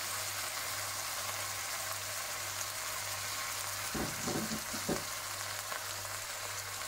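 Pork slices and onion sizzling steadily in hot oil in a wok, with a few short knocks and scrapes of the wooden spatula about four to five seconds in.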